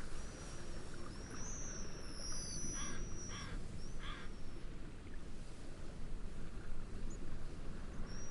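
Steady wind and gentle waves as a constant rushing background, with distant birds calling over it: thin, high, slightly falling whistles from about half a second in, then three short calls in quick succession in the middle.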